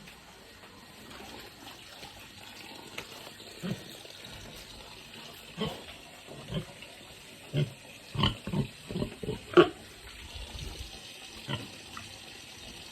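A domestic pig grunting in short, separate grunts, spaced out at first and coming more closely together in the second half.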